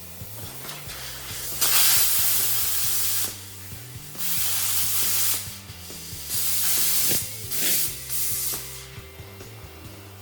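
MIG welder laying a series of short tack welds on steel: five hissing, crackling bursts of about half a second to a second and a half each, with short gaps between.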